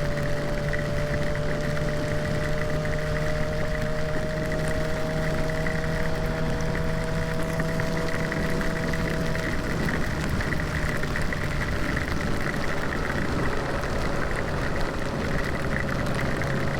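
Kawasaki ZX-6R's inline-four engine running under way, over a steady rush of wind noise. The engine note climbs slowly, drops away about ten seconds in, and comes back at a lower pitch near the end.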